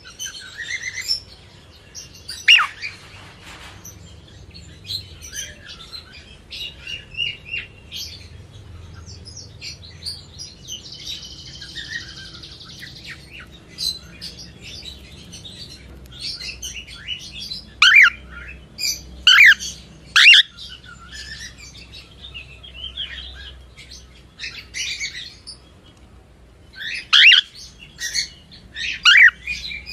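Cockatiel chirping: a continual chatter of short chirps and whistles, broken by louder, sharp calls that sweep in pitch. The loud calls come once early on, in a cluster about two-thirds of the way through, and again near the end.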